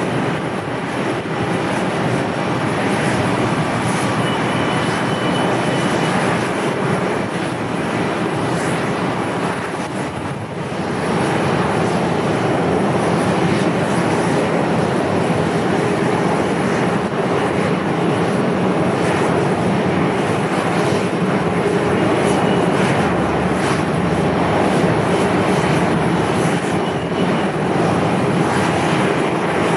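Airliner engines running loud and steady, dipping briefly about ten seconds in.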